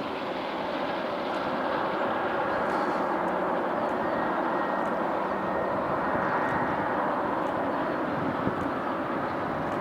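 Jet engine noise from a Boeing KC-767A tanker's twin turbofans on landing. A steady rushing sound that grows louder over the first couple of seconds and then holds, with a faint high whine in the middle.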